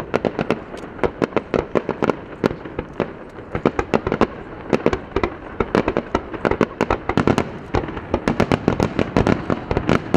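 Fireworks going off in a rapid, unbroken run of sharp bangs, several a second.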